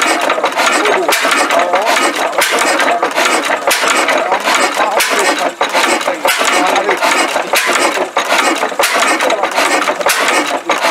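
Old engine running with a rapid, irregular mechanical clatter.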